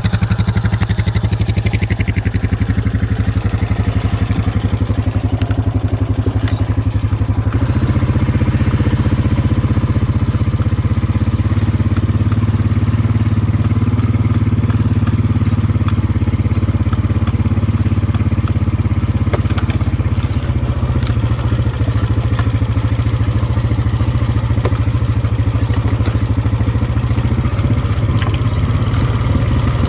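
ATV engine running, stepping up in pitch and loudness about seven or eight seconds in as it picks up speed, then holding a steady drone.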